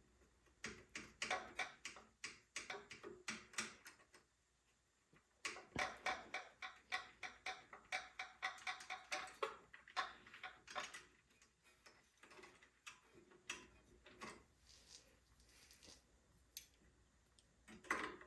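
Light clicks and ticks of hand tools and small metal carburetor parts being handled, in runs of about three or four a second with a couple of short pauses, as a small engine's carburetor is taken off for cleaning.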